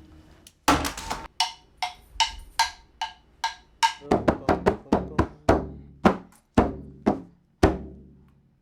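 Music of struck tuned percussion, such as a xylophone or marimba, playing a light melody of single ringing notes, about two to three a second. A lower line of notes joins about halfway through, and the last note fades out near the end.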